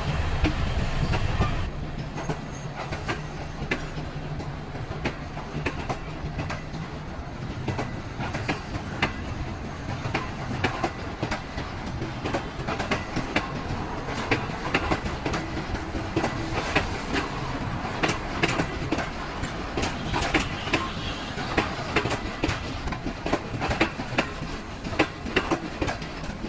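Train running on rails, wheels clattering over the track with many sharp clicks. A heavy low rumble dies down about a second and a half in.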